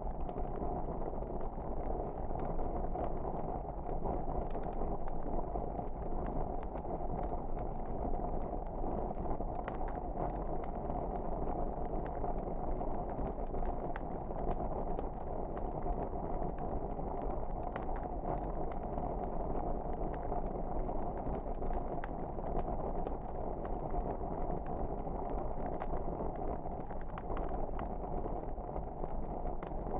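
Wood fire burning in a fireplace: a steady rush of flames with scattered small crackles and pops.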